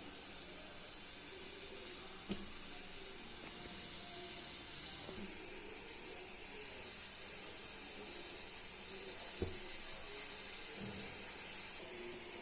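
Steady hiss of tea cooking in a pan on the stove, with a light click about two seconds in and a sharper tap past the middle.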